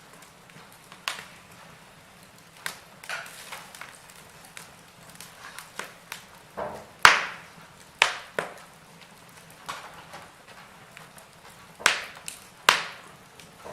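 Wood fire in a fireplace crackling: irregular sharp pops and snaps over a faint steady hiss, with a few louder pops in the second half.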